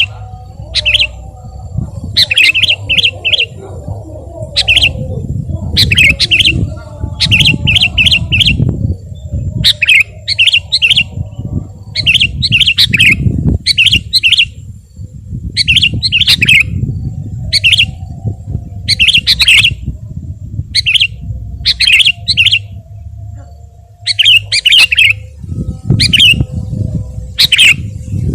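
Sooty-headed bulbul (kutilang) singing energetically: short, loud phrases of three or four quick notes, repeated every second or two, over a steady low rumble.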